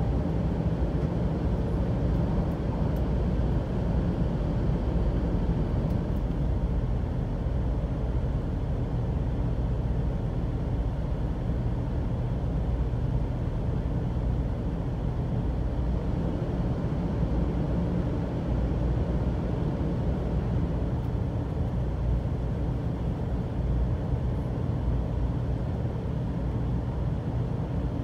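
Shinkansen train running along the line, heard from inside the passenger car: a steady low rumble.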